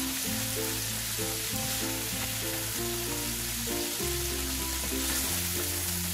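Shrimp, fish balls, crab sticks and vegetables sizzling in hot oil in a frying pan, stirred with a wooden spatula, over soft background music with held notes and a bass line.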